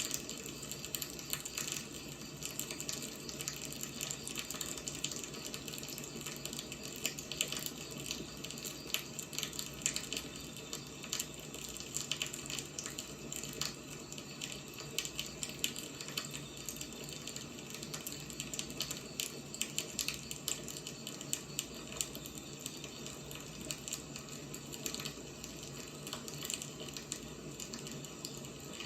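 Firewood burning: a steady hiss with frequent small, irregular crackles and occasional sharper pops.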